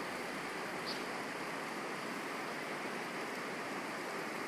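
The Capilano River running: a steady rush of water.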